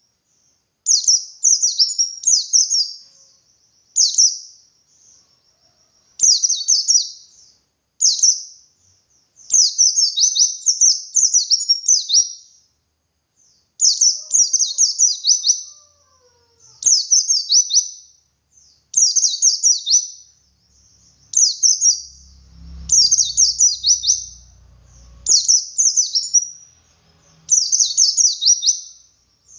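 A white-eye (pleci dakun) singing its 'ngalas' song: short, rapid, high-pitched twittering phrases with 'wit wit' variations, repeated every second or two.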